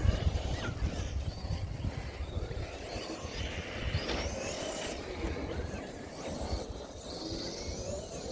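Electric RC car driving, its motor whine rising and falling in pitch as it speeds up and slows, with gusts of wind rumbling on the microphone.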